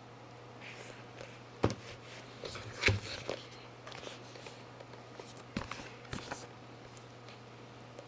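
Tablet box and packaging being handled during an unboxing: several sharp knocks and clicks, the loudest about three seconds in, with light rustling between, over a low steady hum.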